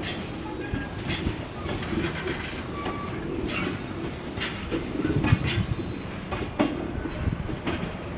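Freight train of container flatcars rolling slowly past as it pulls into the station, the wheels clacking irregularly over rail joints over a low rumble, with a few short faint wheel squeals.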